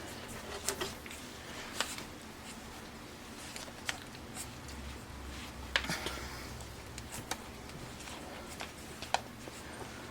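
Five-week-old Pembroke Welsh Corgi puppies moving about and playing with toys: scattered light clicks and scuffs, over a faint steady hum.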